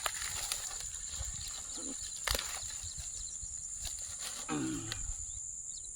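Steady high-pitched insect chirring, with a few sharp knocks and a short low call that falls in pitch about four and a half seconds in.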